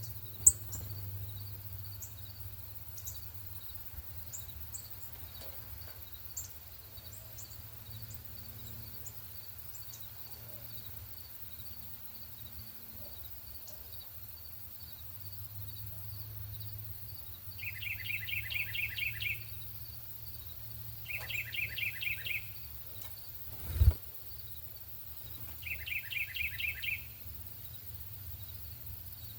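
A songbird sings a rapid trilled phrase of quick downslurred notes, about a second and a half long, three times in the second half, after a few short high chips near the start. Over a low background hum, an insect pulses steadily throughout, and there is one sharp thump a little before the end.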